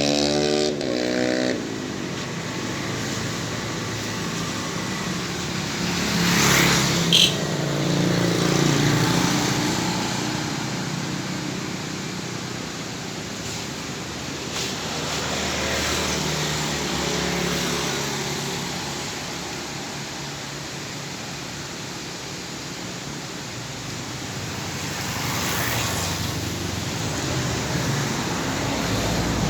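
Yamaha Jupiter MX single-cylinder four-stroke, bored up to 165cc with a CLD oval aftermarket exhaust, running on the road with traffic-like noise, growing louder and softer in slow swells. One sharp click about seven seconds in.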